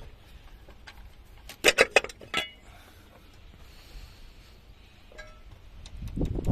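Loose steel engine parts and tools clinking together: a quick run of sharp metallic clinks about two seconds in, the last one ringing briefly, then a low rumble near the end.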